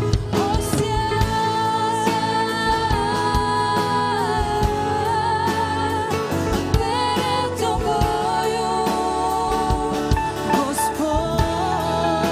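Live worship band playing a slow song with sung vocals held in long notes, backed by guitar and drums.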